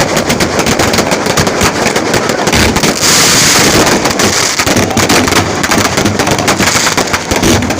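Fireworks going off in a dense, continuous barrage of rapid bangs and crackles, over a high hiss that swells for about a second partway through.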